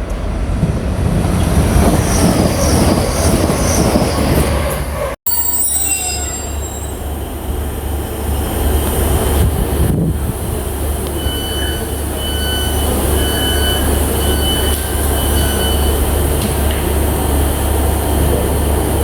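Train running through a station platform, with a steady rumble and wheels squealing on and off through the middle of the stretch. The sound cuts out for an instant about five seconds in.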